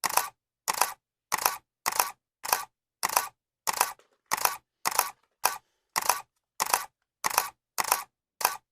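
Camera shutter clicking over and over, about one and a half to two clicks a second, each click a quick double snap.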